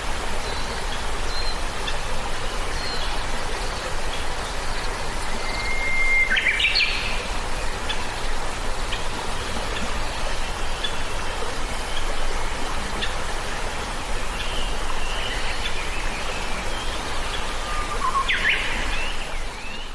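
Birds chirping and whistling, with a held whistle about a third of the way in and a sharp falling call near the end, over a steady even hiss.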